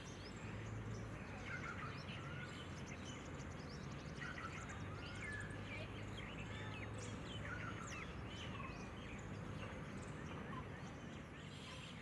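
Small birds chirping, with short, varied calls scattered throughout, over a steady low hum of background noise.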